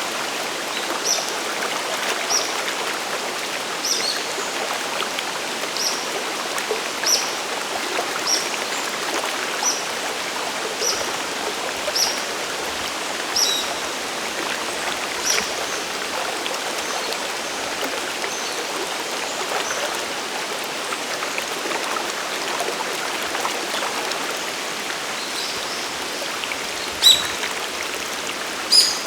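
Sagiri Falls' waterfall and mountain stream: a steady rush of falling and flowing water. Over it, short high chirps repeat about once every second or so through the first half. Two sharper clicks come near the end.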